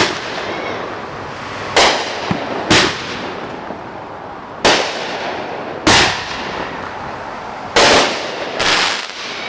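Fireworks going off: six sharp, loud bangs at uneven intervals over a steady crackling haze of more fireworks.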